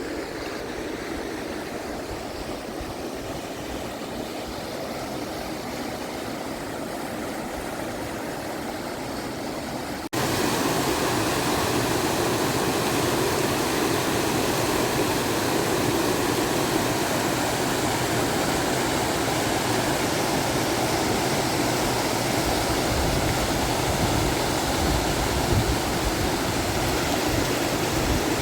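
Steady rushing of running water, an even noise with no rhythm; it jumps abruptly louder and brighter about ten seconds in.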